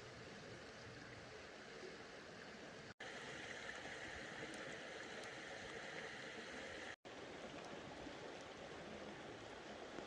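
Faint, steady rush of a running creek, broken by two brief dropouts.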